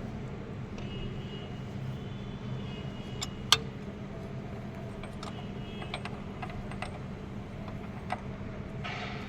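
Light metallic clinks and taps of hand tools and parts being handled during engine work, with one sharp metal click about three and a half seconds in, over a steady low hum.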